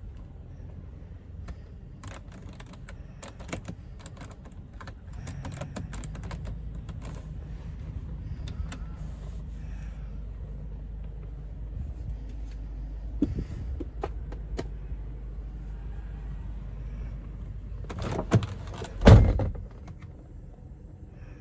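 Scattered clicks and small knocks, like switches and controls being worked inside a car, over a low steady hum that grows louder a few seconds in. About 19 seconds in comes one heavy thud, like a car door shutting.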